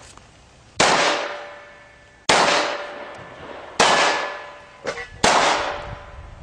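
Four pistol shots about a second and a half apart, each followed by a lingering metallic ring from steel targets being hit.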